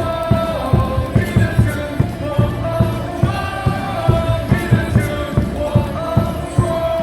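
Baseball stadium cheer music over the loudspeakers, with the crowd singing along to a steady pounding beat.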